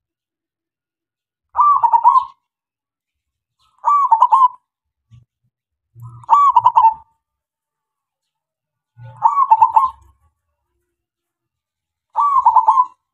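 Male zebra dove (perkutut) singing: five short, quick warbled cooing phrases, each under a second, spaced two to three seconds apart.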